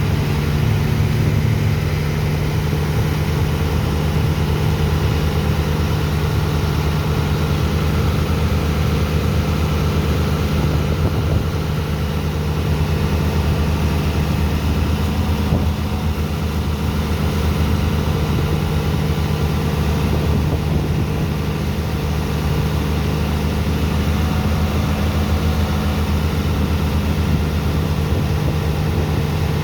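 Sand dredger's pump engine running at a steady speed, a constant low engine hum that does not rise or fall.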